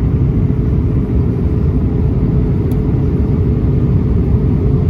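Steady low rumble of an Airbus A320's cabin in flight: jet engine and airflow noise, unchanging.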